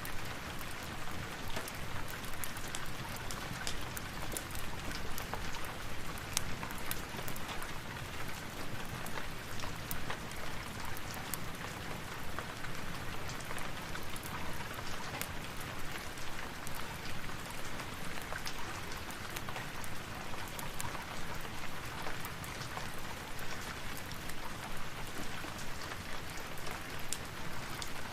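Steady rain falling, an even hiss dotted with many small sharp ticks of drops.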